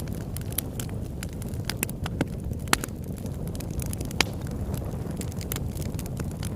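Campfire burning: wood crackling and popping over a steady low rumble, with two sharper pops about three and four seconds in.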